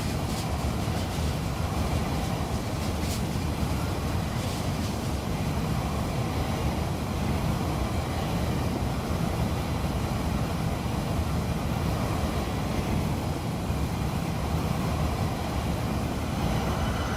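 Freight train cars rolling past with a steady rumble of wheels on rails, and a few faint clicks in the first few seconds.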